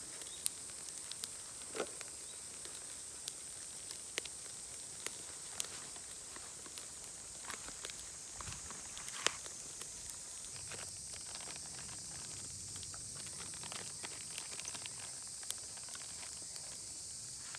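Charcoal fire crackling, with scattered sharp pops and ticks over a steady high hiss.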